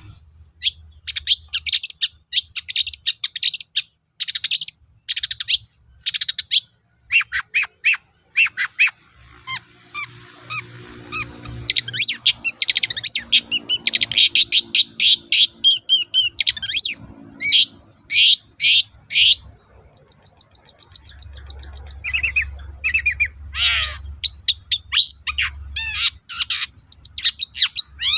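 Long-tailed shrike (cendet) singing a fast, varied song of short harsh chirps and squawks, with a rapid run of evenly repeated high notes about two-thirds of the way through.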